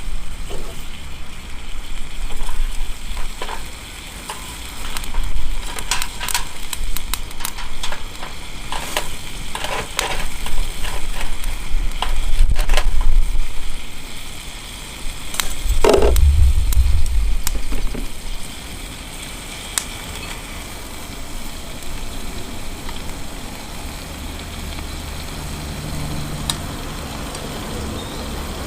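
Meat sizzling on a grill over a fire-pit stand, with scattered crackles and sharp pops. A loud low rumble comes and goes through the first part, heaviest about sixteen seconds in, then eases off.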